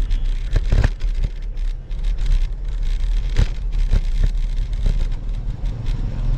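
Wind buffeting and road noise on an action camera's microphone while cycling: a steady low rumble with a few short knocks, one about half a second in and another past the three-second mark.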